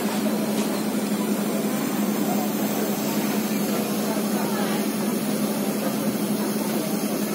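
Steady hiss of heavy rain mixed with crowd chatter, over a constant low hum from the sound system.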